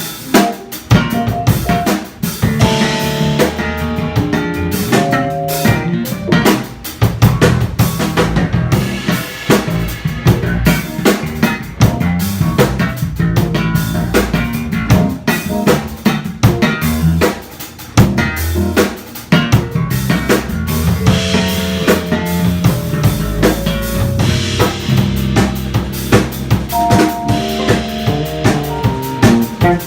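A live jazz combo playing, with the drum kit most prominent: busy snare, rimshot and bass-drum hits over bass notes and held piano or guitar chords.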